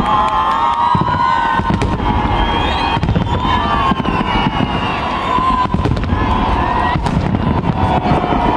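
Large aerial fireworks display: a dense, continuous run of booming shell bursts and sharp cracks, with wavering whistles over it.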